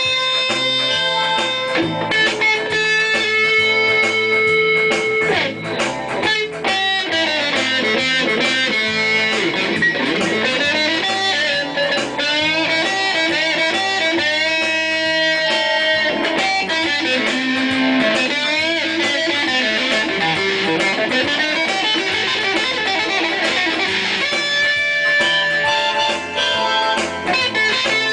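Electric guitar music: a lead line of held notes, with many sliding and bending pitches in the middle stretch.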